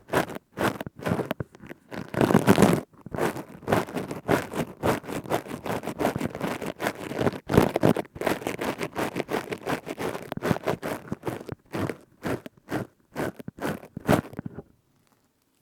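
Plastic scouring pad rubbed and squeezed close to the microphone: a rapid, irregular run of crisp crackling strokes that stops near the end.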